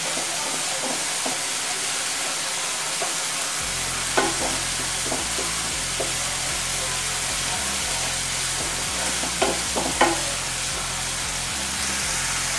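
Ground onion paste sizzling steadily as it fries in hot oil in a non-stick pan on high flame, stirred and scraped with a spatula. A few sharp clicks of the spatula against the pan come about four seconds in and again near ten seconds.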